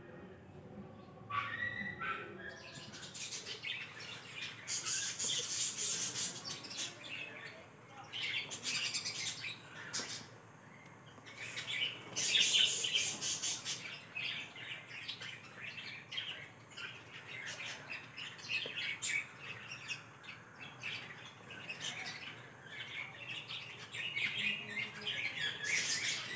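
Birds chirping and squawking in repeated short, high-pitched bursts, on and off throughout.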